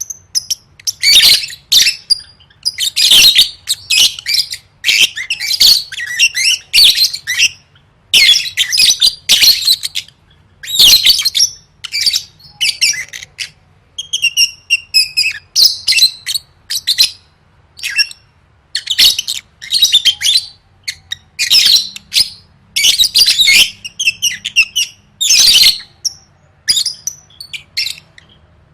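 Lovebird singing continuously in shrill, chattering bursts of about a second each, one after another with short gaps, with a run of thinner chirps about halfway through.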